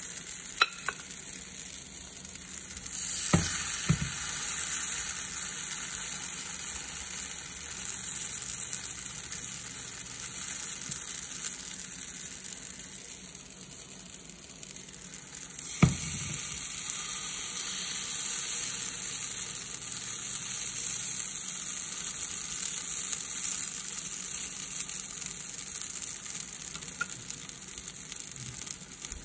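Sweet potato banana pancakes frying in oil in a pan, a steady sizzle throughout. A few sharp clicks, one near the start, two a few seconds in and one about halfway, as the spoon works the batter.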